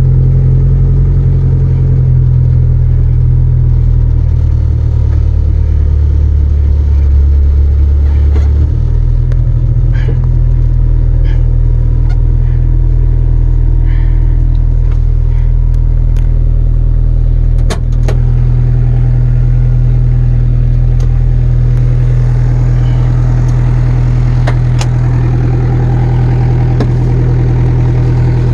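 1984 Ford Ranger's diesel engine idling steadily with a low drone that shifts slightly in pitch about nine seconds in. A few light clicks are scattered over it.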